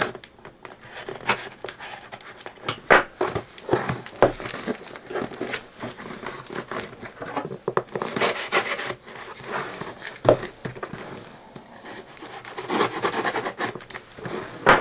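Cardboard box and packaging being handled and opened: irregular rustling, crinkling and scraping with small knocks, thickest about eight seconds in and again near the end.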